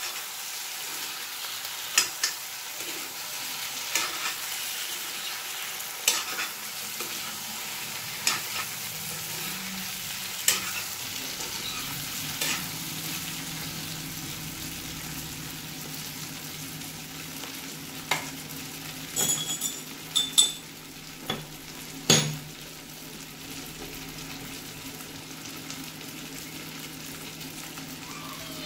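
Jackfruit and chicken pieces sizzling as they fry in a black kadai, stirred with a spatula that scrapes and knocks against the pan about every two seconds. A few louder knocks come close together about two-thirds of the way through.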